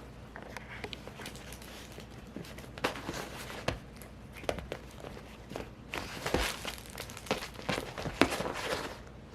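Eight-week-old cockapoo puppy playing and chewing: scattered light clicks and knocks, with a denser crinkly rustling over the last few seconds.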